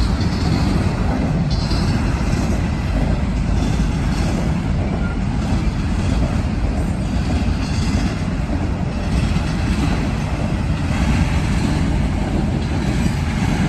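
Freight train rolling past at close range: a steady, loud rumble of cars moving over the rails.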